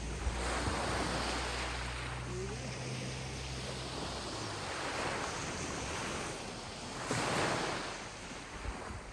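Ocean waves surging and washing in, swelling loud about a second in, again around five seconds and near the end, with wind on the microphone. A low steady rumble runs under the first half.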